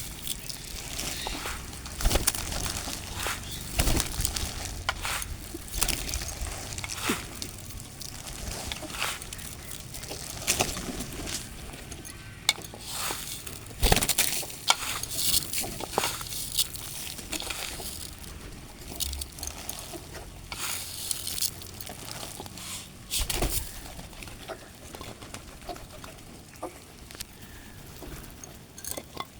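Birds feeding, pecking and scuffling at scattered grain: irregular sharp taps and clicks, some louder than others, over a faint hiss.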